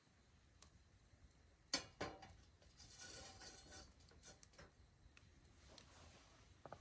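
Faint wood fire crackling: a few sparse, sharp snaps and pops, the loudest a little under two seconds in, with a soft hiss around the middle.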